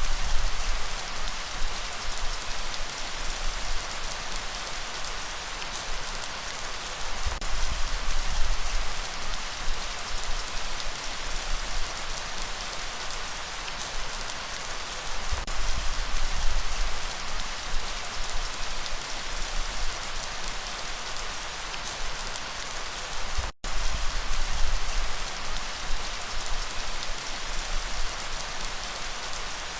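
Steady rain falling, an even hiss of countless drops with a low rumble underneath. The sound cuts out for an instant about two-thirds of the way through.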